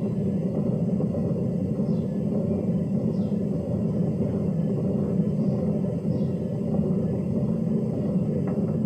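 Hoover DYNS 6105 DZ front-loading washing machine, which has worn drum bearings, running steadily at the start of a spin-only program before the spin ramps up: a continuous low rumble.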